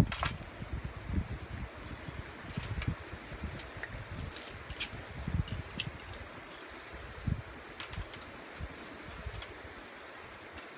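Scattered sharp clicks and light knocks, a second or two apart, over a low, gusty rumble of wind on the microphone.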